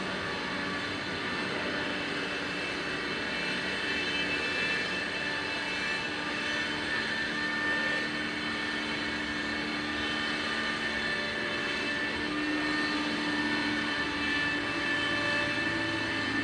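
Aeroplane flying overhead: a steady drone with several held tones.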